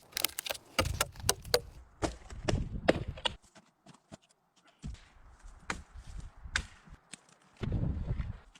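Wood being worked by hand: a quick run of sharp cracks and knocks for about three seconds, then scattered single cracks, with low rumbling handling noise in between.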